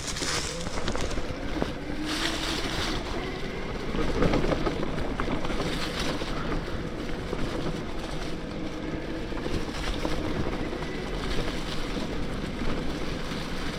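Bafang BBSHD mid-drive motor on a 72-volt electric mountain bike whining under power while riding, its pitch drifting a little with speed. Behind it are wind and rolling noise, with a louder patch of jolts about four seconds in.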